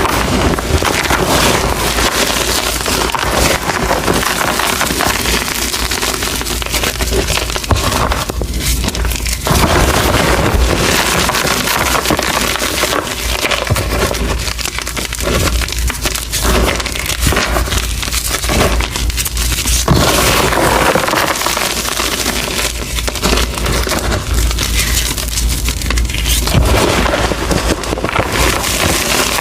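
Reformed gym chalk being crushed and crumbled, a dense, continuous crunching and crackling.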